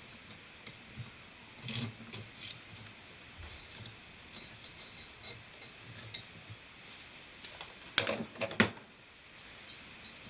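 Metal clicks and clacks from a valve spring compressor and valve parts being worked on an EJ20 cylinder head, scattered taps with a louder cluster of sharp clacks about eight seconds in.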